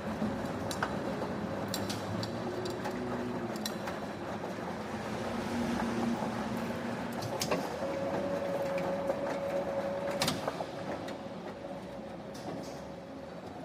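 Factory machinery running steadily with a hum and a few held tones, one of which steps up and grows louder about 8 seconds in. Scattered sharp metallic clicks and knocks are heard, the loudest about 10 seconds in.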